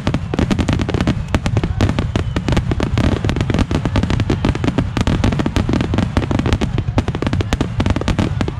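Aerial fireworks shells bursting in rapid, unbroken succession: a dense run of booms and crackles with a constant deep rumble beneath, with no gap anywhere.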